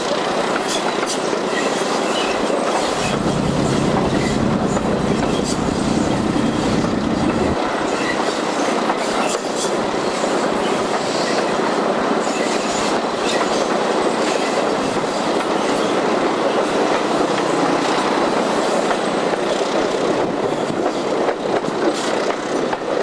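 A diesel-hauled train running, heard from an open carriage window: a steady rumble with the wheels clicking over rail joints and a faint squeal early on as it takes a curve. The rumble grows deeper and heavier from about three seconds in and eases back at about seven and a half seconds.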